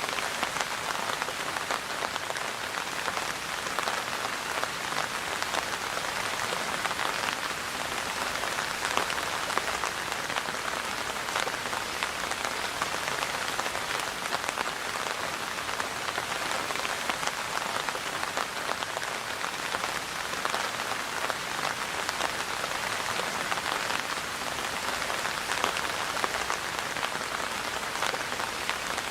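Steady rain falling and pattering on surfaces, a dense hiss of many drops with fine individual drop ticks throughout.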